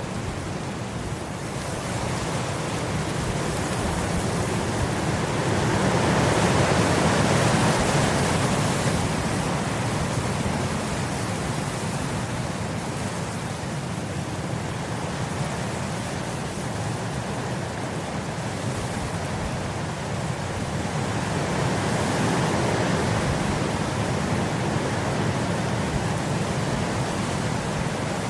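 Wind blowing across grass: a steady rushing that swells into a stronger gust about a quarter of the way in and again about three-quarters through.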